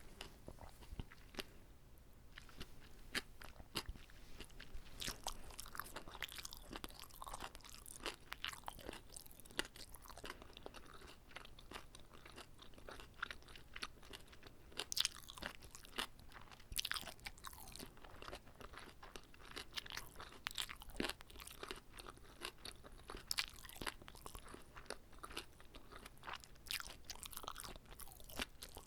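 Close-miked chewing and biting of a whole uncut gimbap roll, eaten by hand: a steady run of irregular small clicks and mouth smacks.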